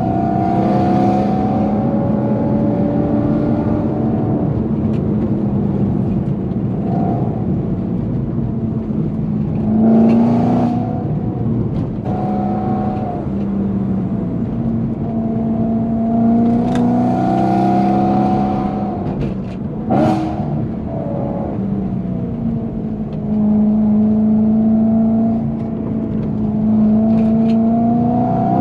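BMW E90 M3's 4.0-litre V8 through a titanium performance exhaust, driven hard: the engine note climbs under acceleration and drops back off-throttle several times. There are short sharp cracks about ten and twenty seconds in.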